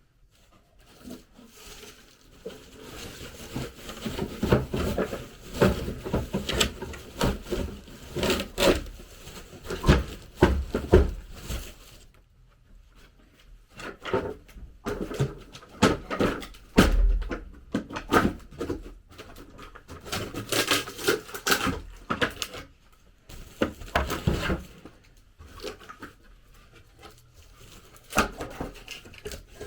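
Irregular knocks, taps and rustling of objects being handled, in a small room, with a short lull a little before the middle.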